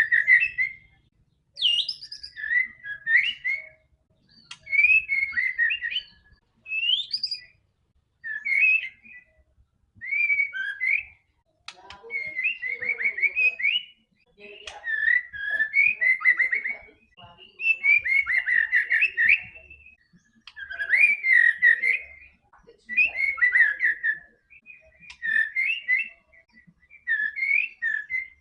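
White-rumped shama (murai batu) singing in full voice: a string of short, varied whistled phrases of one to two seconds each, with quick rising and falling sweeps and brief pauses between phrases.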